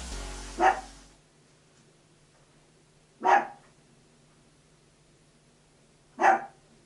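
A dog barking three times, single short barks about three seconds apart. Background music fades out in the first second.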